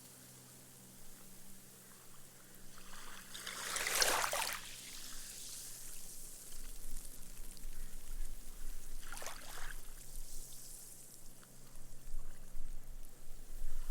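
Small, gentle waves washing up a sandy beach and soaking into the sand, the foam fizzing away as the water drains. The largest wash comes about four seconds in, a smaller one about nine seconds in, and another builds near the end.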